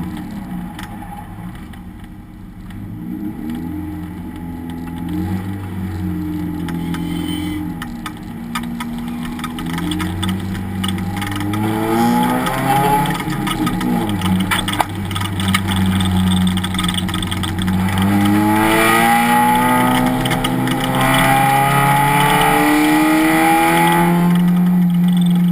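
Race car engine under race conditions, revving up through the gears with quick drops in pitch at each upshift. It falls away a few times as the car slows, then climbs and grows louder through several upshifts in the second half.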